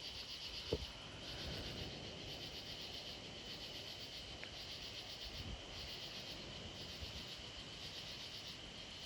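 Chorus of night insects, crickets or katydids, chirping in a steady pulsing drone, with one brief click about a second in.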